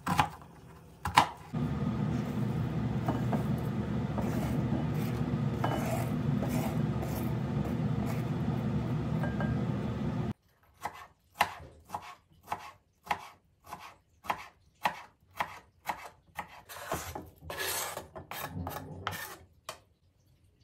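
Knife strokes on a cutting board: a few at the start, then a steady rushing noise that stops suddenly about ten seconds in, then a run of about two chopping strokes a second.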